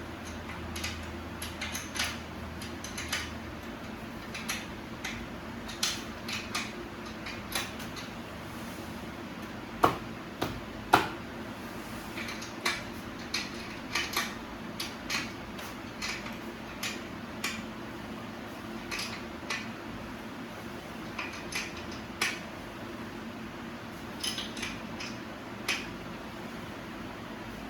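Irregular metallic clinks and taps of hand tools on bicycle parts during assembly, with two louder knocks about ten and eleven seconds in. A steady low hum runs underneath.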